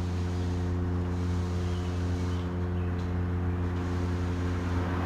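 Steady low mechanical hum with an unchanging pitch, like an engine or motor running at a constant speed.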